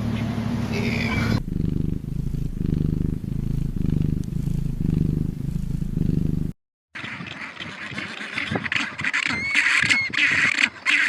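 A cat purring in low, rhythmic pulses that stop abruptly about six and a half seconds in. After a brief gap, a different animal recording follows with high chirping calls.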